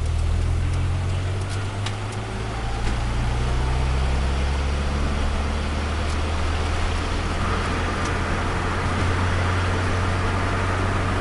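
Turbocharged Nissan Micra engine running at idle, a steady low drone. Its pitch shifts a little over the first few seconds and then settles.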